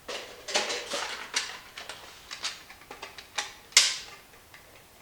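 A run of irregular clicks, knocks and light clatter as hard objects, tools and parts, are picked up and set down, with the loudest knock about four seconds in. No drill is running.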